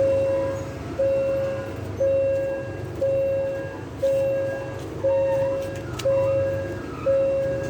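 Railway level-crossing warning bell ringing steadily, one clear ding about every second, each fading before the next, over a low rumble of road traffic.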